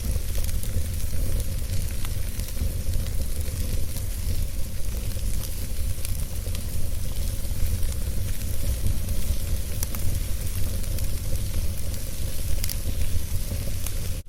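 Wood fire burning steadily, with a low rumble and scattered sharp crackles and pops.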